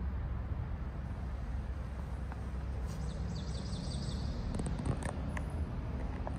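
Steady low rumble of room ambience, with a small bird's quick trill of high, falling chirps about three seconds in and a few light clicks after it.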